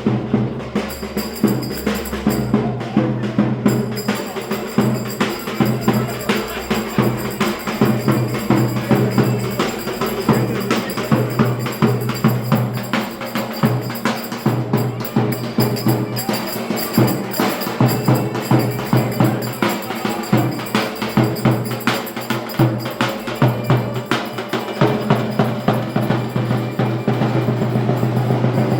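Live Turkish folk dance music (oyun havası) with a steady, quick drum beat under held melody tones.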